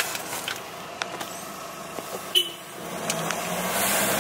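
Road and engine noise inside a moving car, with a few sharp clicks in the first couple of seconds; the noise swells noticeably about three seconds in.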